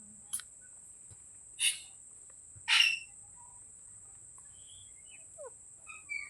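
Indian ringneck parrot giving three short, sharp calls, the third the loudest, followed by a few faint short whistled chirps that glide in pitch. A steady high-pitched tone runs underneath.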